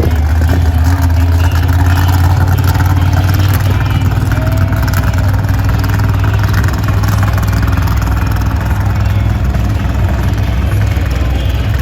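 Monster truck engine running steadily, its sound heavy in the low end.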